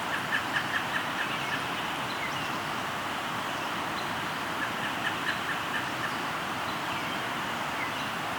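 River flowing steadily, with a bird calling a quick run of about half a dozen short, evenly spaced high notes near the start and again about halfway through, plus a few faint chirps.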